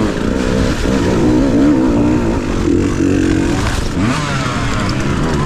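Dirt bike engine running on a trail ride, its pitch rising and falling with the throttle and climbing in revs about four seconds in.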